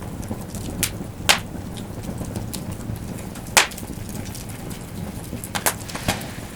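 Wood campfire crackling: a steady low rush of burning with sharp, irregular pops, two about a second in, a loud one in the middle and a small cluster near the end.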